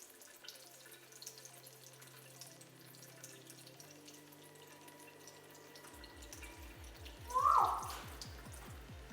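Lovebirds splashing in bath water, a spatter of drips and flicks, over electronic music whose held bass notes turn into a pulsing beat about six seconds in. A short, loud rising squeak sounds near the end.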